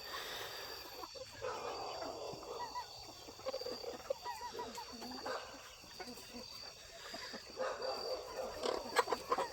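Chickens clucking and murmuring softly, many short calls overlapping, over a steady high buzz of insects.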